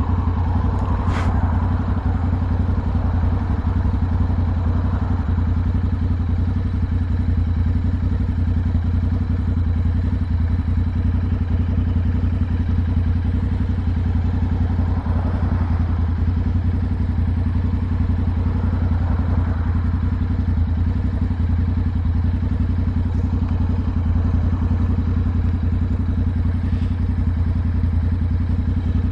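Motorcycle engine running at a steady cruising speed, its low note holding even with no gear changes or revving, with road and wind noise over it. A single sharp click about a second in.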